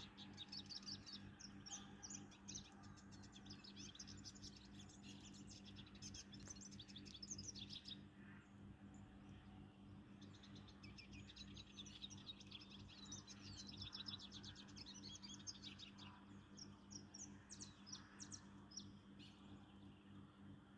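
A small songbird singing long runs of rapid, high twittering notes, with a pause about eight seconds in and shorter breaks later. A steady low hum runs underneath.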